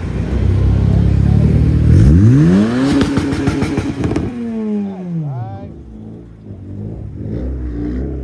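A car engine idling, then revved up sharply once, held high for about two seconds and let fall back to idle, with a whine that winds down as the revs drop.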